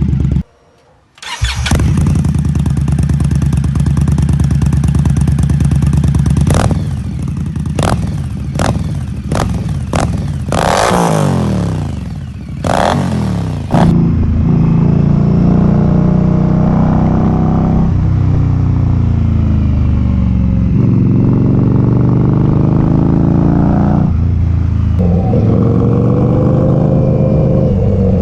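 Indian Scout 1133 cc V-twin with a Vance & Hines exhaust, idling steadily and then revved with several quick throttle blips and two longer revs that fall back to idle. About halfway through it cuts to the bike being ridden, the engine pitch rising and dropping back several times as it goes through the gears.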